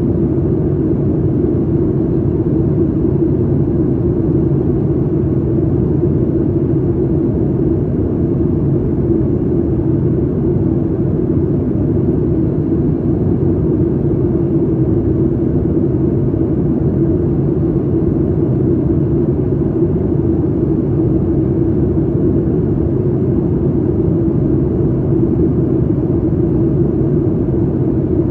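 Steady cabin drone inside a Boeing 737 MAX 8, a mix of its CFM LEAP-1B turbofans and airflow, heard as an even low rumble with a constant hum that neither rises nor falls.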